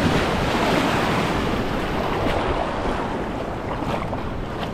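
Ocean surf on the beach: a wave breaking near the start and washing out, slowly fading, with wind on the microphone.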